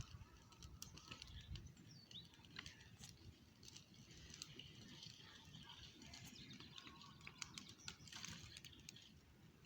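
Faint outdoor quiet with distant birds chirping now and then, and scattered small clicks.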